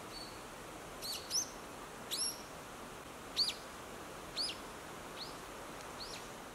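A small bird calling: a series of short, high chirps about once a second, over a steady outdoor hiss.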